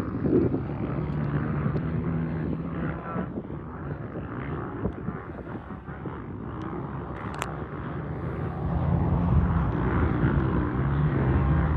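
Small pit bike engine running steadily, with wind rush on the microphone; the engine gets louder about eight seconds in.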